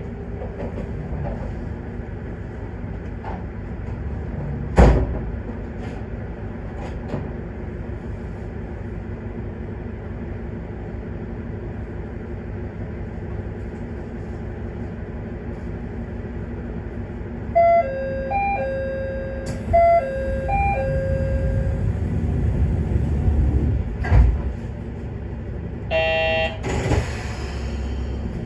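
Aizu Railway diesel railcar with its engine running steadily, with a sharp knock about five seconds in. About two-thirds through, a two-note chime plays twice. Near the end a short buzzer-like tone sounds, followed by a hiss of air.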